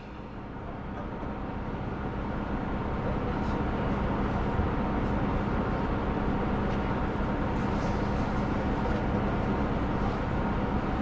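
KiHa 125 diesel railcar standing with its engine idling, heard from inside the car: a steady hum with a constant low tone, fading in over the first couple of seconds.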